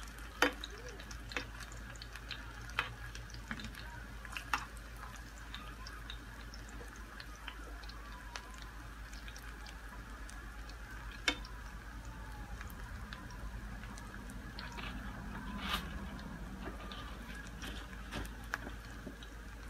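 Sardine fishballs frying in shallow oil in a pan: a steady sizzle dotted with many small pops and crackles, with a few louder clicks along the way.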